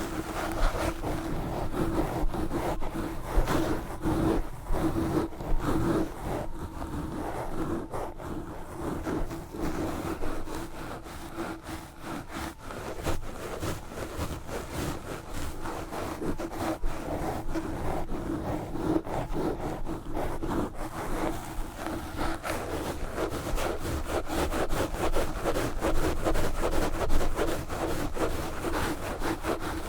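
Knitted wool gloves scratching and rubbing fast and hard right on a Blue Yeti microphone, a dense, rapid run of scraping strokes that eases briefly about twelve seconds in.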